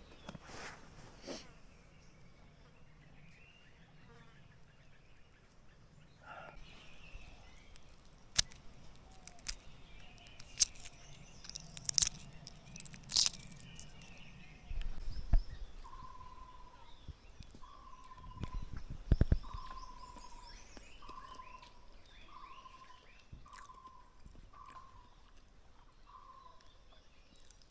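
Forest birds calling, one repeating a short falling whistled note about once a second through the second half, with fainter chirps around it. Earlier come sharp snaps and a few dull thuds of footsteps on the trail.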